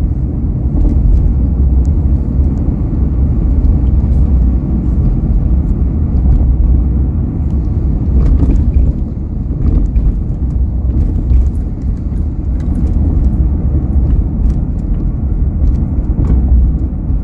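Car driving along a road: a steady low rumble of engine and tyres, with occasional light clicks and rattles.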